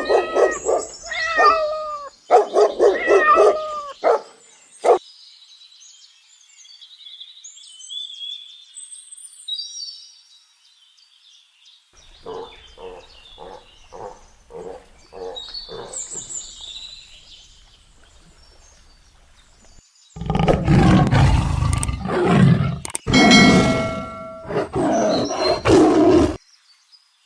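A run of different animal calls cut one after another: pitched, bending calls in the first few seconds, high bird chirps, a string of short evenly spaced calls, then loud, deep roars in the last several seconds.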